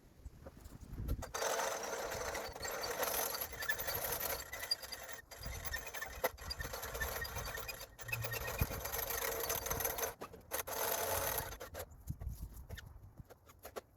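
Woodland Mills HM126 portable bandsaw mill running, a steady mechanical noise that cuts in and out abruptly several times.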